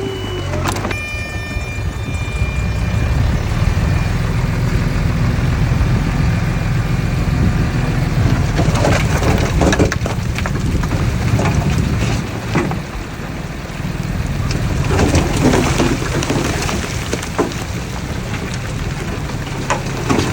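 Diesel engine of heavy earthmoving machinery running steadily under load, with clusters of metallic clanks and rattles about nine seconds in and again around fifteen seconds.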